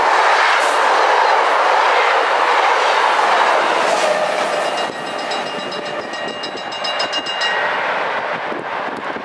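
Passenger train passing close by: ICRm coaches and an NS 1700-class electric locomotive, with a steady rush of wheel and rail noise that drops away about five seconds in. The level crossing's mechanical bells are then heard ringing rapidly, about four to five strokes a second, and stop about two and a half seconds later, the sign that the crossing is clearing once the train has passed.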